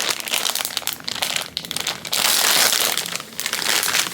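Plastic packaging crinkling and crackling as it is handled, loudest for about a second midway.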